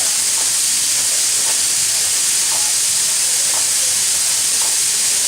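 Class L steam locomotive venting steam in a loud, steady hiss.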